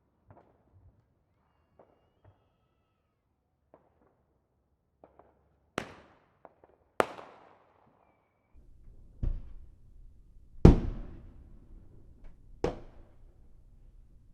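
Distant fireworks going off: scattered faint pops, then five sharp loud bangs, each trailing off in a long rolling echo, the loudest about two-thirds of the way through. A steady low rumble of background noise comes in a little past halfway.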